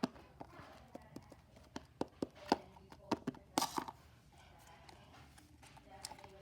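Slime being squeezed and poked by hand: irregular sticky clicks and pops, with a longer crackling squish about three and a half seconds in.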